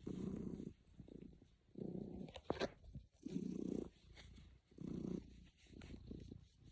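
Domestic cat purring, a contented purr that swells loudly about every one and a half seconds with each breath and stays soft in between. A short sharp click comes about two and a half seconds in.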